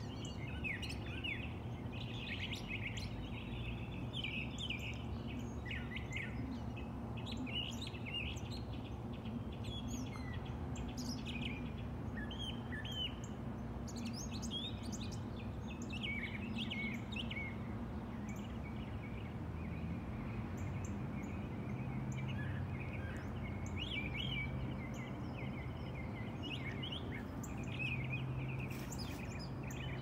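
Songbirds chirping and calling, many short high notes scattered throughout, over a steady low background hum.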